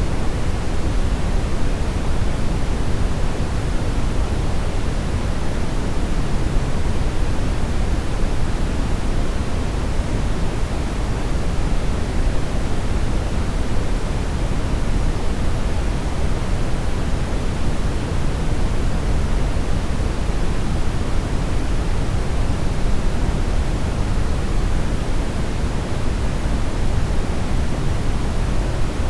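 Steady brown noise: an even, deep rumbling hiss with most of its energy in the low end and little in the highs. It stays the same throughout.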